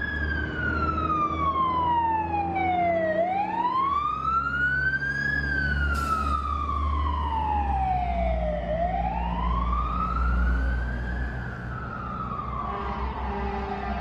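Siren wailing in a slow rise and fall, climbing and falling about every five and a half seconds, over a low steady rumble.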